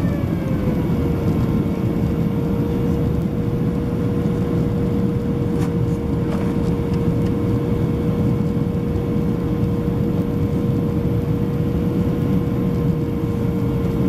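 Cabin noise of a Boeing 767-300ER airliner in flight: a steady rush of engine and airflow noise. Over it runs a constant engine whine that falls slightly in pitch and levels off about a second in. Two faint clicks come near the middle.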